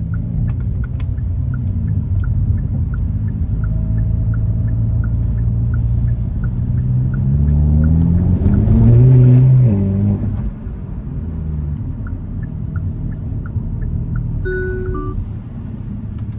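Hyundai Elantra N's turbocharged 2.0-litre four-cylinder engine pulling under acceleration over a steady road rumble. Its pitch climbs from about six seconds in to its loudest near nine seconds, then falls away abruptly at about ten seconds. A regular light ticking runs through the first and last parts.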